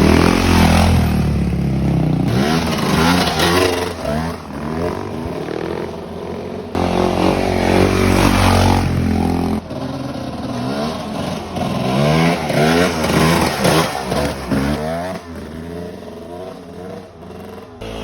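Dirt bike engine revving hard and pulling through the gears, its pitch sweeping up and dropping back again and again, with sudden jumps in sound about 7 and 10 seconds in.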